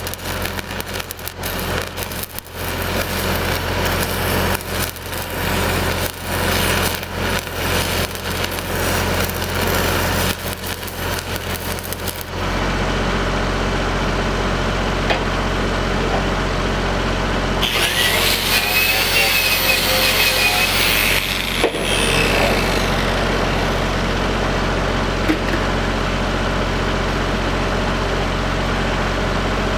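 Stick-welding arc crackling and spitting from 3/16-inch 8010 rods over the steady hum of a Lincoln SAE 300 engine-driven welder. About twelve seconds in the arc stops abruptly and the welder's engine runs on alone, with a brief burst of hissing noise a few seconds later.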